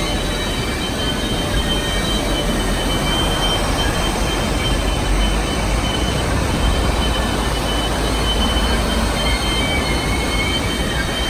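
Passenger train rolling along the track, heard from aboard: a steady rumble of wheels on rail with a thin, high squeal held throughout.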